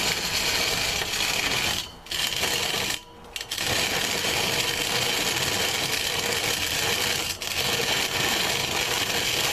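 Pedal-powered corn grinder (a MayaPedal bicimáquina) grinding dried corn kernels on its coarse setting: a steady mechanical grinding rasp. It breaks off briefly about two seconds in and again about three seconds in.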